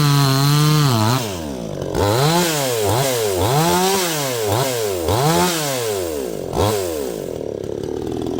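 A 62cc two-stroke chainsaw held at full throttle, then let off about a second in and revved up and down in a run of quick throttle blips, roughly one every two-thirds of a second, before dropping back toward idle near the end.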